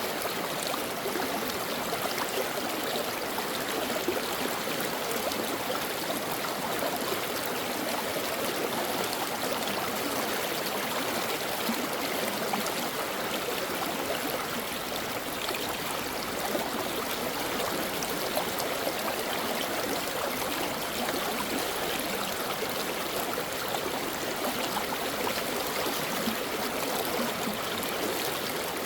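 Stream flowing steadily: a constant, even rush of running water.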